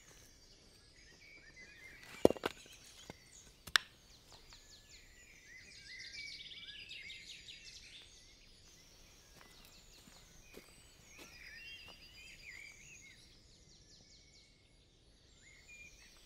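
Songbirds singing and chirping in woodland over a quiet outdoor background, with two sharp knocks about two and four seconds in.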